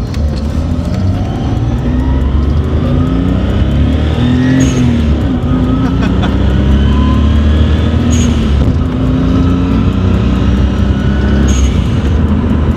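Nissan RB20DET turbocharged straight-six in an R32 Skyline pulling hard through the gears, heard from inside the cabin, the revs climbing again after each shift. At each of three gear changes the HKS blow-off valve vents with a short, sharp hiss and a hint of flutter.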